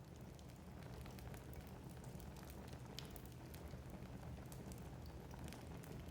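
Wood fire burning in a fireplace: a low steady rumble of flames with frequent small irregular crackles and pops from the burning logs.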